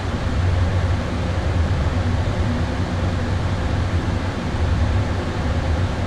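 Steady flight-deck noise of an Airbus A320 in descent: an even rush of air with a low hum underneath.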